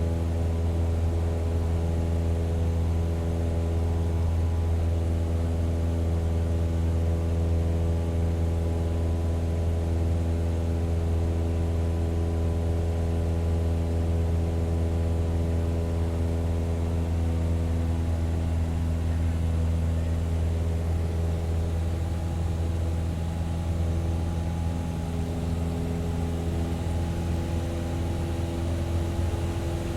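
Propeller plane's engine droning steadily at constant pitch, with a deep hum under a stack of higher tones; it eases a little in level in the last third.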